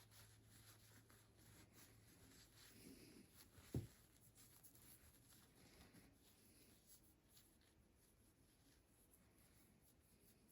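Faint rubbing and scratching of a cloth polishing and wiping down a small folding pocket knife, with one soft low thump about four seconds in.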